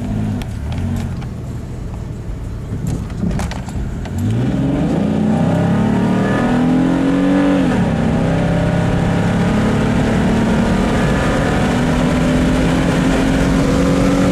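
Pontiac Grand Am GT's engine, heard from inside the cabin, running at low revs for a few seconds and then accelerating hard: the revs rise steadily, drop sharply at an upshift about eight seconds in, and climb again more slowly in the next gear.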